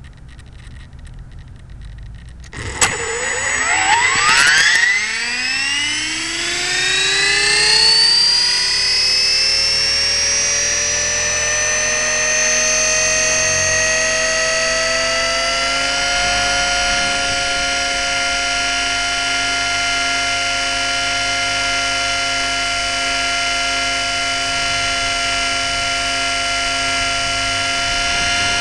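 E-flite Blade 400 electric RC helicopter spooling up: a click about three seconds in, then the motor and gear whine rises in pitch over roughly thirteen seconds and settles into a steady high whine.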